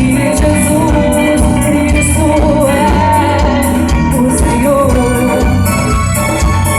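Live band music with a singer: a wavering sung melody over bass and a steady beat, loud and unbroken.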